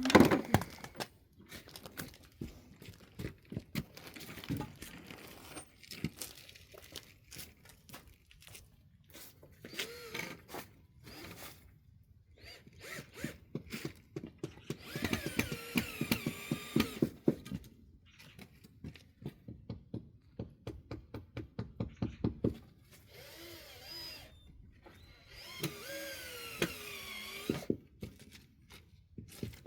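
Cordless power driver driving screws into pallet wood in several bursts, each a fast run of rapid clicks with the motor's pitch rising and falling.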